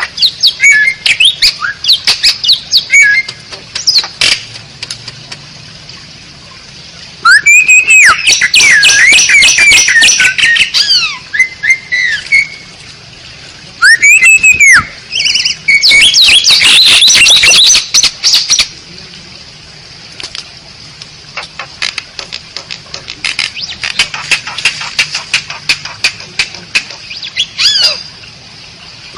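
Asian pied starling (jalak suren) singing: a varied song of loud whistles that rise and fall, mixed with rapid clicking chatter and harsh squawks. It comes in several loud bursts, the biggest about a quarter of the way in and again around the middle.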